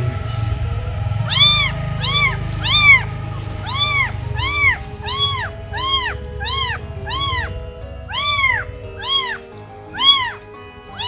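A cat meowing over and over in short, high-pitched calls, each rising and falling, more than a dozen at a steady pace. A low rumble underneath fades out about halfway through.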